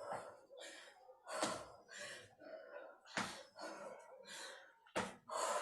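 A woman breathing hard during vigorous exercise: a string of quick, gasping breaths in and out with short gaps between them.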